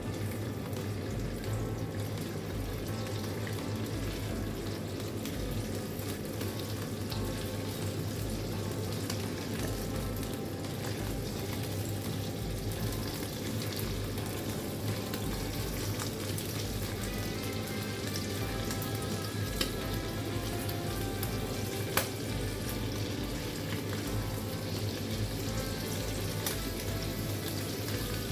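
Chicken livers sizzling as they fry in a wok, stirred now and then with a silicone spatula. There is one sharp tap about 22 seconds in.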